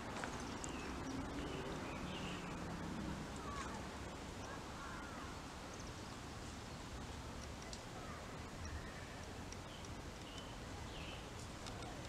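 A few faint, scattered bird chirps over a steady outdoor background hiss.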